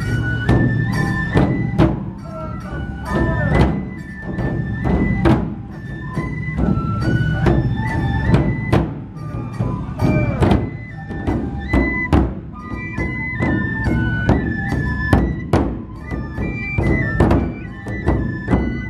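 Matsue dō-procession festival music: large dō drums beaten in a driving rhythm of sharp strikes under a bamboo flute playing a high stepping melody.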